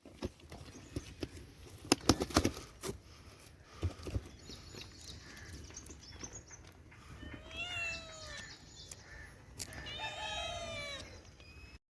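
An elderly Persian cat meows twice: a shorter call past the middle and a longer, drawn-out one near the end. A few sharp knocks and clicks come before it in the first few seconds.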